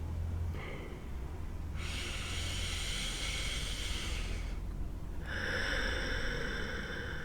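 A person breathing deeply through the nose: two long breaths, each lasting about two seconds, over a low steady hum.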